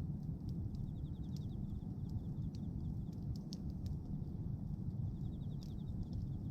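Bonfire of pruned tree branches crackling, with scattered sharp pops over a steady low rumble of the burning fire. A high, rapid pulsed trill comes and goes in short bursts, about a second and a half in, again around two seconds, and near the end.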